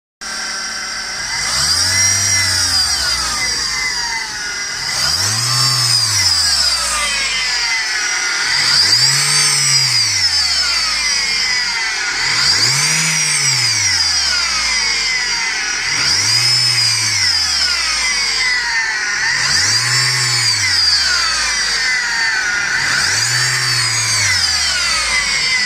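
Citroën C3 1.4i 16-valve four-cylinder petrol engine revved up and let fall back seven times, about every three and a half seconds. A high whine rises and falls with the revs. It is the noise the owner traces to the timing-belt or accessory-belt area.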